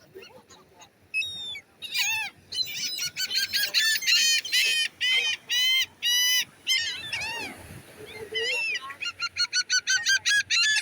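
A flock of gulls calling: many short, nasal cries overlapping one another, sparse at first and then coming thick and fast from about two seconds in.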